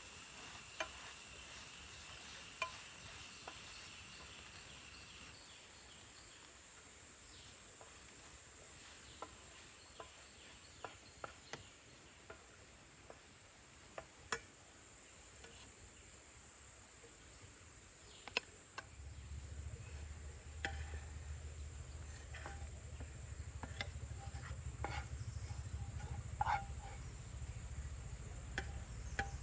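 Steady high-pitched insect drone, with scattered light clicks and taps throughout. A low steady rumble comes in about two-thirds of the way through.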